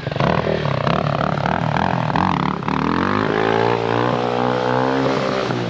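Dirt bike engine revving; its pitch wavers at first, then climbs steadily from about halfway through.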